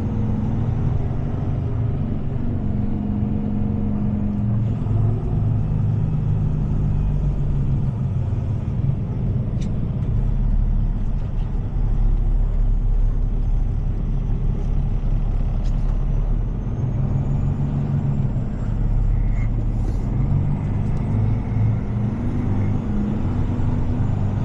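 Heavy tow truck's diesel engine running steadily at low revs, with a couple of faint clicks.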